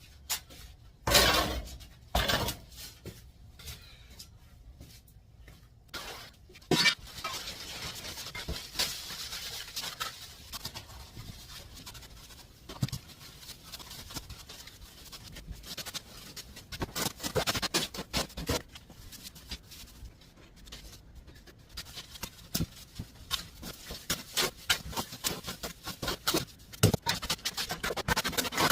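Hand trowel working fresh cement mortar on a floor being plastered: scraping strokes with scattered clicks and knocks, and a few louder knocks in the first seconds.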